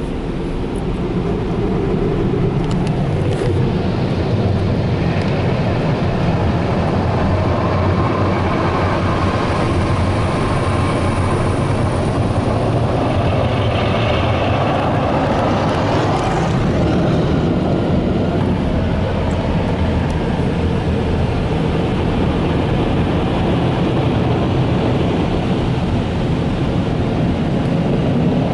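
Touchless car wash dryer blowers rushing air over the car, heard from inside the cabin as a loud, steady roar that swells around the middle. This is the drying pass, with the blowers still spraying some leftover water onto the car.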